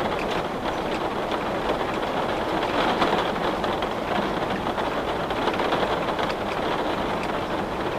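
Steady rain falling on a window, a dense continuous patter with many small drops ticking against the glass.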